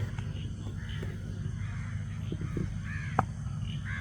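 Short harsh calls, repeated about four times, over a steady low hum, with one sharp click about three seconds in.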